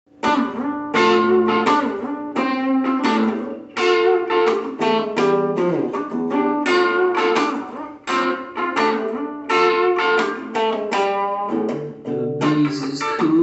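Guitar intro to a song: a steady rhythm of plucked and strummed notes that ring out, with no singing.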